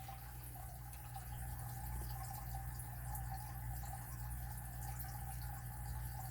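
Steady low hum with a faint wavering higher tone over quiet room noise; no distinct event stands out.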